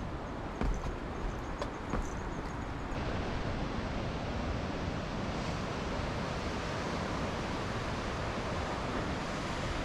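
Strong wind buffeting the microphone, a steady rushing noise with sea surf beneath it, with a few faint knocks in the first couple of seconds.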